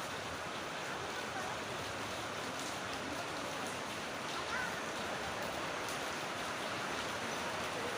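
Rain pouring down steadily, an even hiss of falling water.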